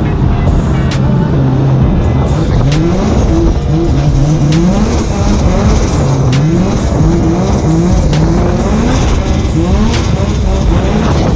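Drift car's engine revving hard in repeated rising sweeps, climbing in pitch and dropping back about once a second as the car drifts, over tyre and road noise.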